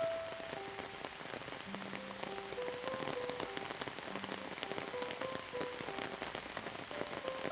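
Steady rain falling, with many separate drops pattering, under a soft, slow melody of single held notes.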